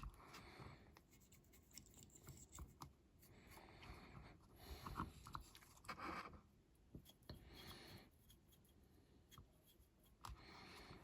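Faint scratching and brushing of small hand work at a workbench, in several short strokes with a few light clicks and taps between them. It is typical of a fine paintbrush working on a diecast model.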